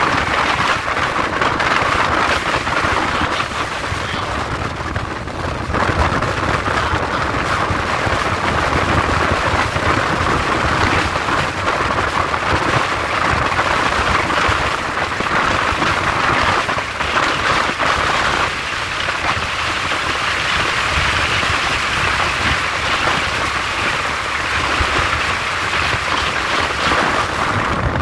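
Steady rushing noise of a moving passenger train heard from an open carriage window: wind over the microphone with the low rumble of the wheels on the track.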